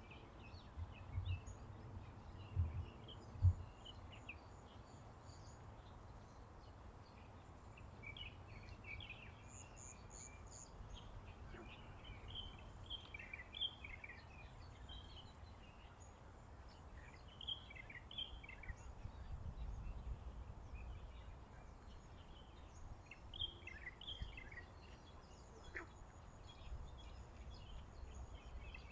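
Several birds chirping and calling in short, scattered phrases over a low outdoor rumble and a steady faint high whine. A few low thumps in the first few seconds.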